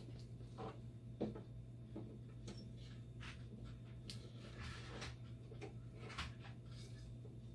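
Dialysis machine under test: a steady low hum with a faint steady tone above it, and scattered light clicks and knocks, the sharpest about a second in and again near the end.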